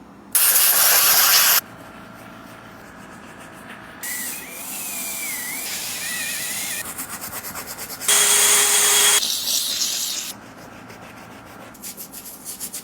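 A brush scrubbing a sneaker's sole in quick strokes, broken by two loud hissing bursts of about a second each, one near the start and one about eight seconds in.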